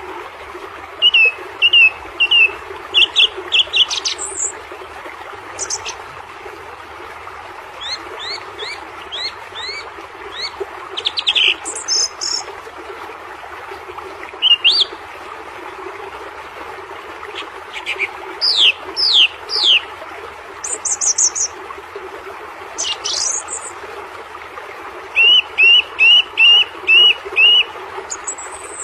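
Several birds chirping and calling, with quick runs of short repeated notes, over a steady background hiss.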